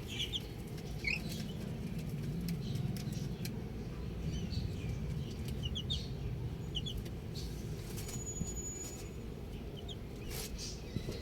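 Baby chicks peeping: short high chirps, often in quick pairs or triplets, scattered irregularly over a steady low background rumble.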